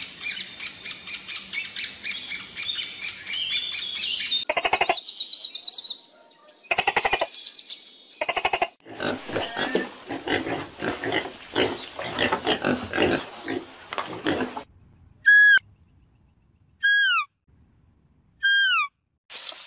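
A string of different animal calls. First a rapid run of high bird calls, then a crowd of piglets squealing for several seconds, then three short, falling whistles about a second and a half apart.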